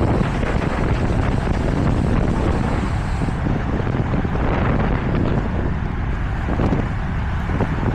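Wind rushing and buffeting over the microphone of a camera on a moving road bike: a steady, heavy rumble.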